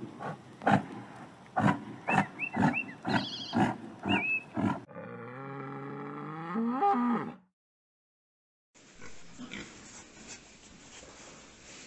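American bison bellowing: one long, deep, pitched call that bends upward and breaks off, starting about five seconds in. Before it comes a run of sharp clicks and crunches with a few short chirps, and after a brief silence a faint noisy background.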